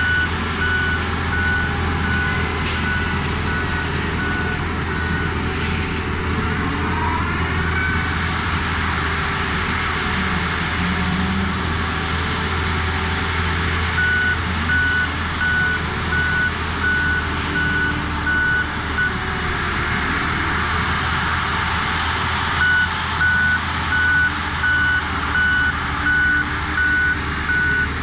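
Mini excavator running a hydraulic Rut brush cutter head: a steady engine drone with a dense whirring noise over it. Its travel alarm beeps in three stretches: for the first few seconds, again around the middle, and through the last few seconds.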